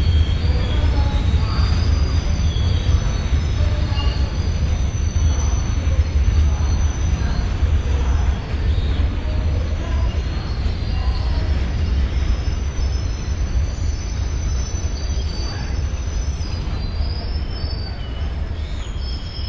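Indian Railways freight train of flatcars and open wagons rolling past at speed: a steady low rumble of wagon wheels on the rails with thin, high wheel squeal over it, easing a little near the end.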